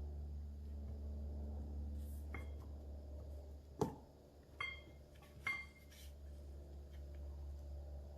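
A few sharp metallic clicks and light taps, two of them with a brief ring and the loudest about four seconds in, over a steady low hum. They come from hand tools and hydraulic cylinder parts being handled while a seal is worked into place by hand.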